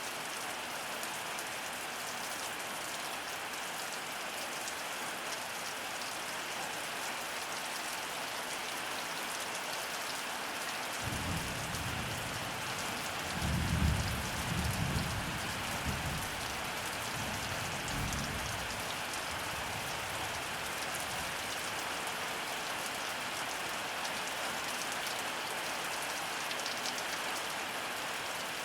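Heavy rain falling steadily on surfaces. About eleven seconds in, thunder rumbles low for several seconds, loudest a few seconds after it begins, then dies away.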